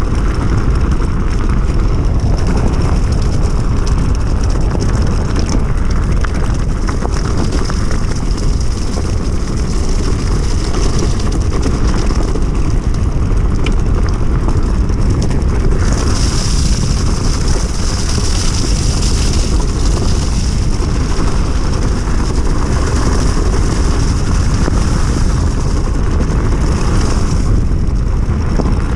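Steady wind buffeting the microphone with tyre rumble from an electric enduro bike riding along, with no clear motor tone. About halfway through, a brighter hiss rises for a few seconds, then comes back briefly near the end.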